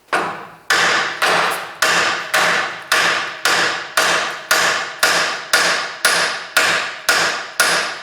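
A steel hammer pounds on a steel front-suspension part of a car chassis, about two blows a second, each one ringing out before the next.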